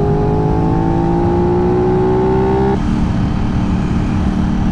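Aprilia 660 parallel-twin motorcycle engine pulling under light throttle, its pitch rising slowly, then dropping suddenly almost three seconds in as it shifts up a gear, and running on steadily at the lower pitch.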